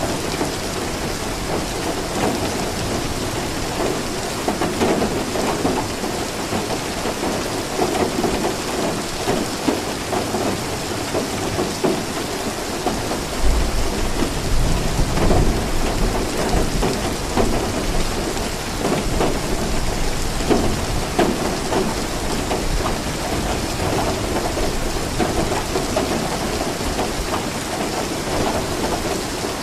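Steady rain falling, with a low rumble of thunder rolling in about halfway through.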